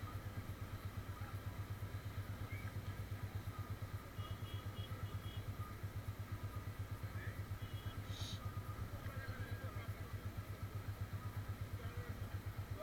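Motorcycle engine idling: a steady, low, rapid pulsing. A few short high beeps sound near the middle, followed by a brief click.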